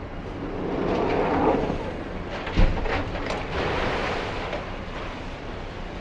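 Demolition of a concrete building: a noisy rush of concrete breaking and rubble falling, with one sharp heavy knock about two and a half seconds in and more crashing debris after it. A demolition excavator's diesel engine runs steadily underneath.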